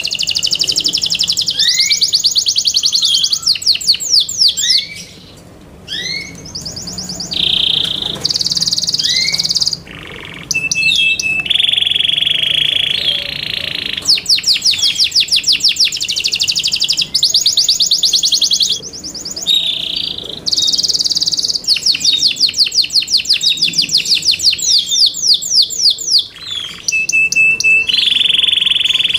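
Yorkshire canary singing: fast trills of rapidly repeated sweeping notes, broken by a few steady buzzy rolls and short pauses.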